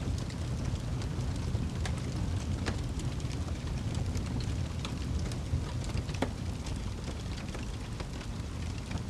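Wood fire crackling and popping: irregular sharp snaps over a steady low rumble.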